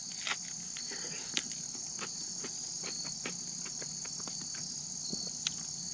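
Crickets chirring steadily in the background, with a few faint, irregular crunches of someone biting and chewing crisp campfire pizza crust.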